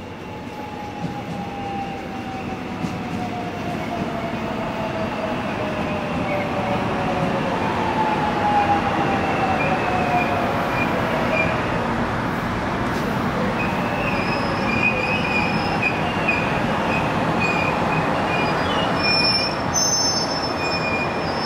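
Electric commuter train running through a station: steady rail and running noise that grows louder, with a motor whine falling in pitch twice in the first half. High wheel squeal sets in during the second half.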